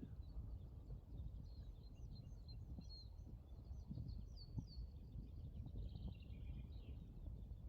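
Small birds chirping and twittering in quick, repeated high notes, faint, over a low steady rumble.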